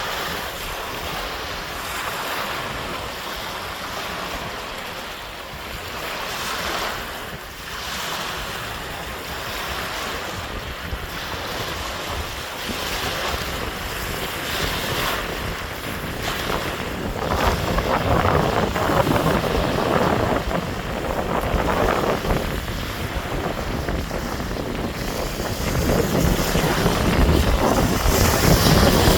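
Sea waves surging and breaking on the shore, swelling and easing, louder in the second half, with wind buffeting the microphone.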